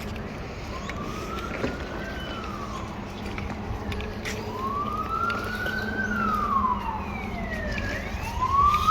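Emergency vehicle siren in a slow wail, rising and falling about every four seconds and growing louder; a second, higher-pitched siren joins near the end.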